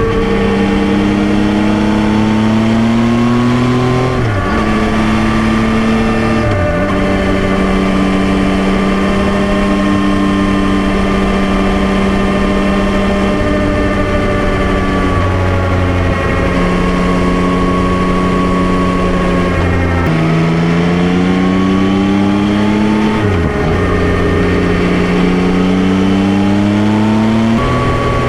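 Yamaha Tracer 9's 890 cc inline-three engine pulling through the gears under throttle. The pitch climbs and then drops sharply at each of several upshifts, with a long stretch of steady cruising in the middle.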